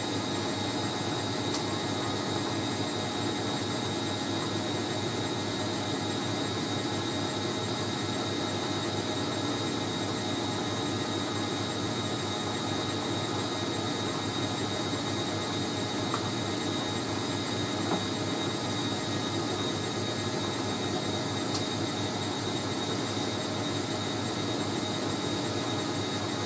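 Hoover A3060 Electronic 1100 washing machine spinning steadily at speed in a spin between rinses: a constant motor whine with high steady tones over the rush of the drum.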